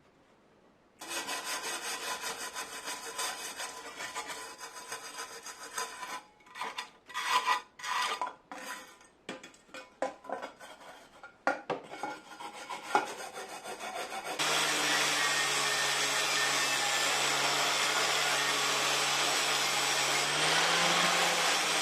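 Rubbing and scraping on a hard surface, with separate strokes in the middle stretch, as in filing or sanding by hand. About 14 seconds in, a steady motor-driven tool starts and runs with a low hum under a loud hiss.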